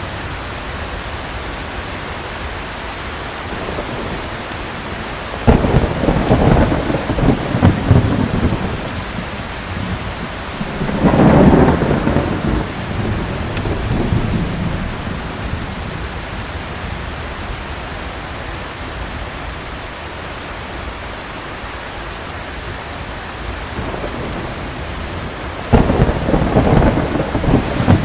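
Heavy rain falling steadily, with three peals of thunder: a sudden crack about five seconds in, a rolling rumble around eleven seconds, and another sudden crack near the end.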